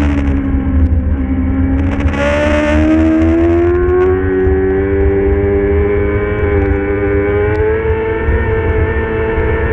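Middleweight superbike racing engine running hard at high revs. Its pitch dips slightly, then climbs steadily for several seconds as the bike pulls, with a heavy low rush of wind noise underneath.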